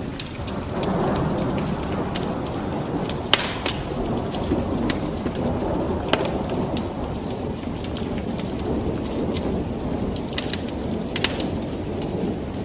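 Wood fire crackling, with irregular sharp pops over a steady low rumble that swells about a second in.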